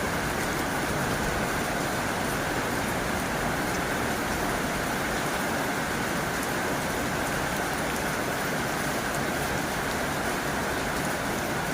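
Heavy rain falling steadily on a tin roof: an even, unbroken patter.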